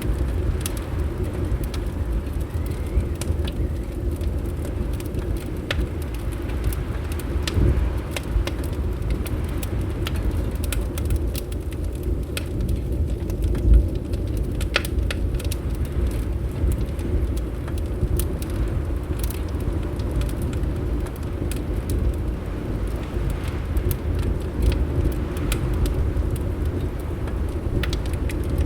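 Wood fire crackling, with scattered sharp pops and snaps over a steady low rumble of wind.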